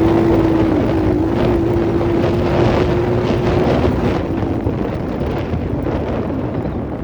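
Enduro motorcycle engine running at steady revs, with wind buffeting the microphone; the engine's steady note fades about four seconds in.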